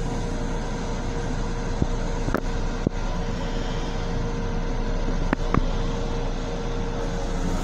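Steady rumble of an M7 electric railcar running, heard from inside its small restroom, with a constant hum and a few sharp clicks or rattles about two seconds in and again past the middle.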